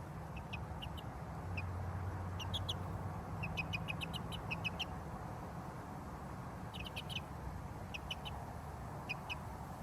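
Short, high bird chirps in quick clusters of several notes, with gaps between the clusters, over a low steady hum.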